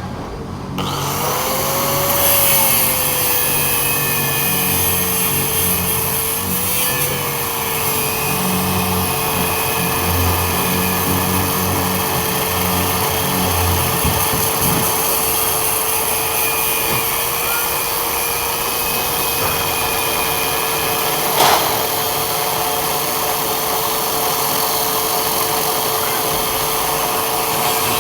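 A power tool's motor spins up about a second in and then runs at a steady pitch, under a rough rasping noise of cutting or grinding. There is a single sharp click about two-thirds of the way through.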